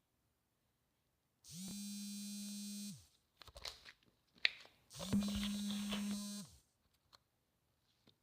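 A small electric device buzzing steadily twice, each buzz about a second and a half long, with light clicks and handling noise in between.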